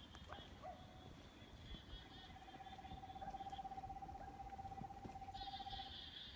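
A long call held at one steady pitch with a fine trill running through it, starting about two seconds in and lasting about four seconds: the unidentified animal sound heard from the river. High, chattering bird calls run around it, fading out midway and returning more loudly near the end.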